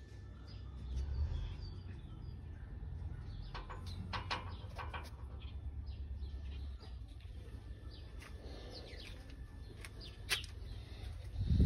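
Outdoor ambience: a few bird chirps over a low rumble, with a single sharp click about ten seconds in.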